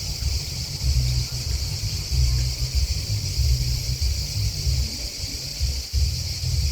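Steady, high-pitched chorus of chirping grasshoppers and crickets, under a loud, uneven low rumble of wind buffeting the microphone.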